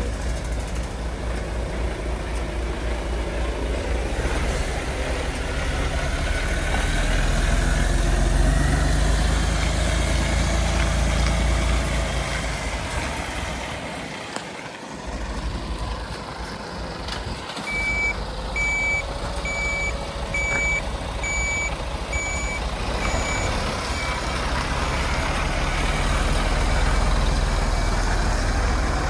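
Heavy truck diesel engine running, a 2018 Mercedes Actros 2446 tractor unit, swelling louder for a few seconds and then easing off. From a little past the middle of the clip, a reversing alarm beeps about eight times, evenly spaced under a second apart.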